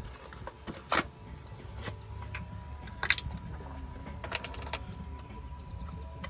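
A few sharp clicks and knocks of handling, the loudest about a second in and about three seconds in, over a steady low rumble.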